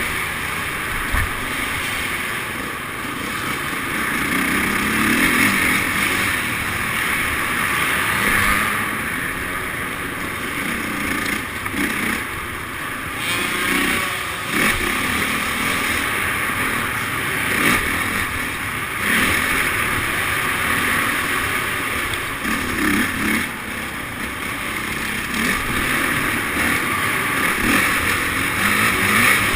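Motocross bike engine running, its level rising and falling every few seconds as the throttle opens and closes.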